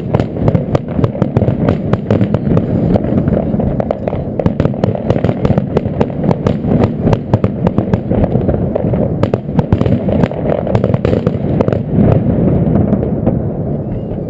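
Fireworks display: a rapid, dense barrage of bangs and crackles over a continuous low rumble, easing a little near the end.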